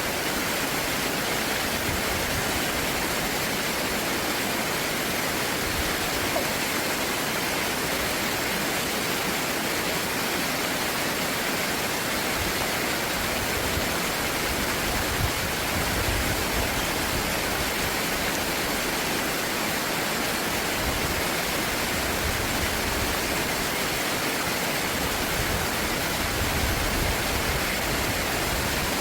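Stream water rushing in a steady, unbroken wash.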